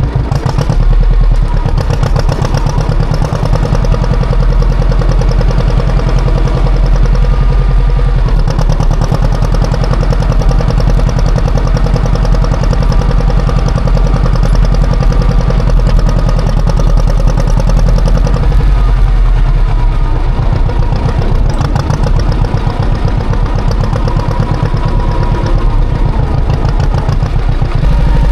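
Classic John Deere tractor engine working hard while plowing heavy, wet snow, a loud, steady mechanical note that shifts slightly about two-thirds of the way through.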